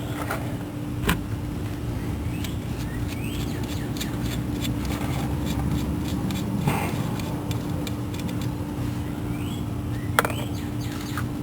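A steady low mechanical hum with one constant tone, with scattered clicks and light knocks from parts being handled. The sharpest click comes near the end.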